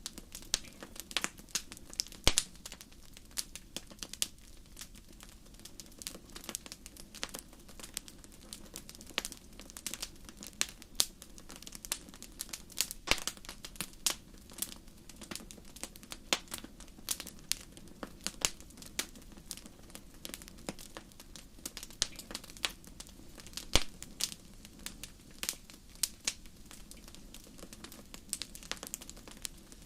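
Wood campfire crackling: irregular sharp pops and snaps, a few much louder than the rest, over a steady low background.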